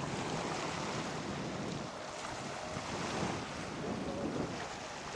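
Wind buffeting the microphone, an even rushing noise.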